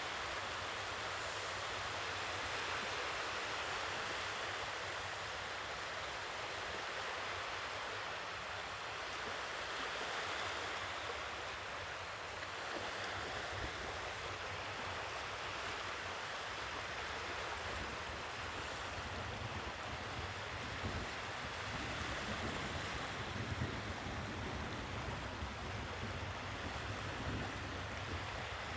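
Sea waves washing onto the shore: a steady, continuous rush of surf, with heavier low rumbles of breaking water in the second half.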